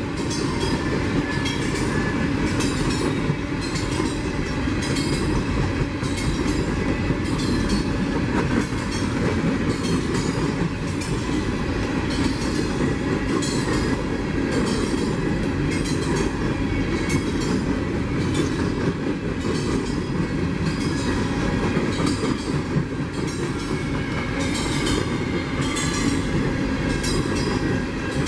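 Railroad cars of a passing train rolling by close at hand, the wheels clicking over rail joints in a steady, repeating rhythm over a continuous rumble.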